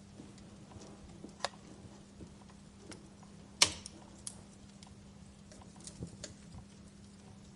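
Wood fire in a fireplace crackling, with scattered small clicks and sharp pops. The loudest pop comes about three and a half seconds in, over a faint steady low hum.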